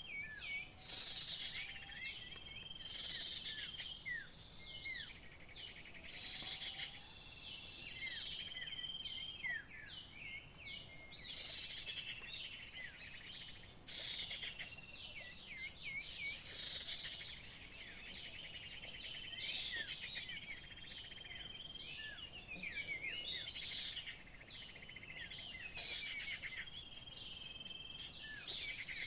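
Small birds chirping and calling continuously: rapid, overlapping high chirps and short downward-sweeping notes, with several birds calling at once, over faint outdoor background noise.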